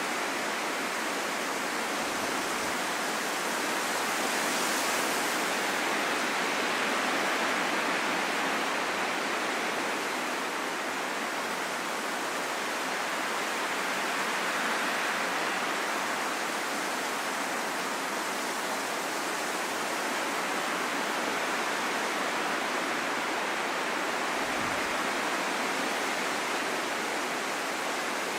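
Wind blowing as a steady rushing hiss, swelling and easing slowly.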